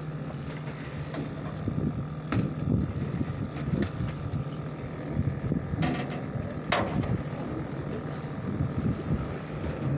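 Steady low hum of the fishing boat's engine, with a few scattered clicks and knocks on board.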